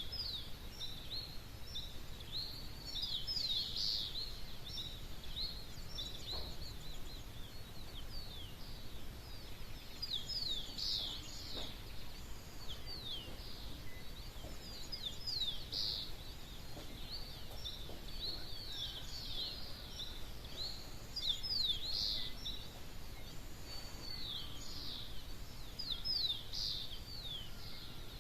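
Birds singing at dawn: many short, quick down-slurred chirps in dense clusters that come and go through the whole stretch, over a steady low background hum.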